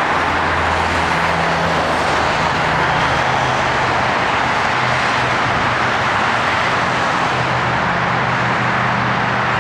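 A motor running steadily under a loud, even hiss, its low hum shifting slightly in pitch now and then.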